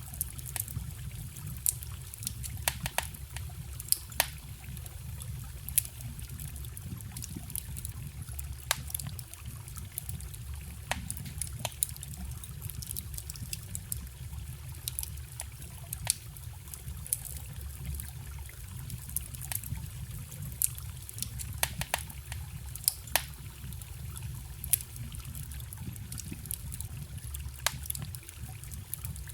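Wood fire crackling, with irregular sharp pops, over the steady rush of a forest stream.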